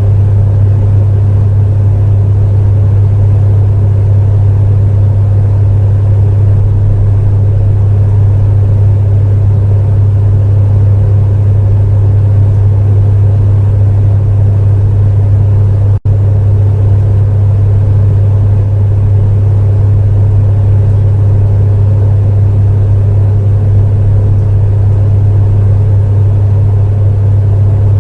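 Electric space heater running steadily: a loud, constant low hum with a hiss above it. The sound drops out for an instant about halfway through, a glitch in the recording.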